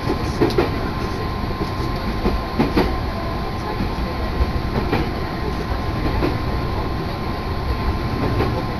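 Interior of a moving electric commuter train: a steady running rumble from the wheels on the rails, with scattered short clacks and knocks and a faint steady whine.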